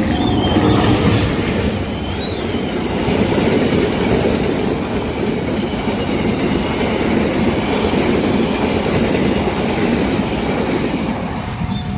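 Train passing close by at speed over a curved level crossing: a steady, loud rumble of wheels on rail with clickety-clack. Brief high wheel squeals come in the first couple of seconds.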